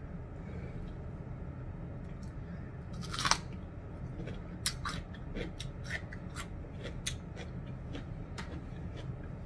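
Close-up eating sounds: chewing and crunching food, with a louder crunch about three seconds in followed by a run of short, sharp mouth clicks and crackles.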